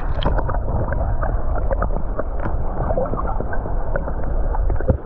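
Flowing river water heard through a camera held underwater: a steady low rumble, muffled, with many small bubbling pops and clicks.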